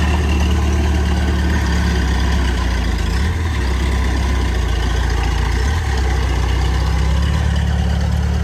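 Heavy diesel engine of earthmoving equipment running steadily with a deep note, which shifts briefly a little after three seconds and again near six seconds.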